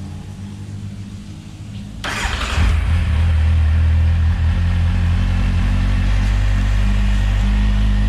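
Kawasaki Z1000's inline-four engine through an SC Project slip-on exhaust. A low steady hum for about two seconds, then the engine starts with a sudden loud burst and settles into a loud, steady idle.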